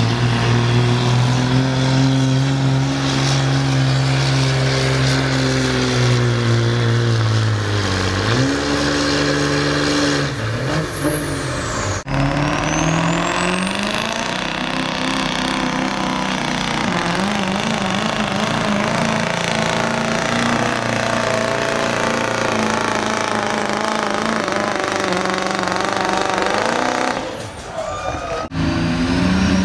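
Diesel pickup truck engines running hard under load while pulling a sled, the engine pitch holding steady, then sagging and wavering as the load builds. The sound breaks off sharply about 12 seconds in and again near the end, and the engine falls away shortly before the second break.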